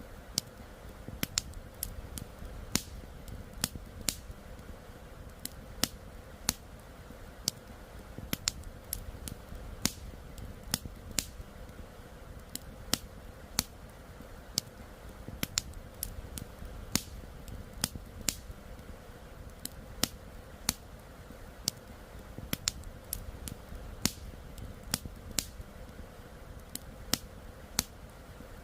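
Wood campfire crackling, with irregular sharp pops and snaps, a loud one every second or so, over a steady low rush of flowing river water.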